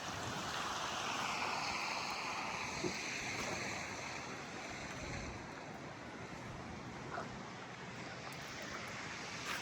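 Steady outdoor rushing noise. A faint whoosh sweeps down in pitch over the first few seconds, then the noise eases off slightly.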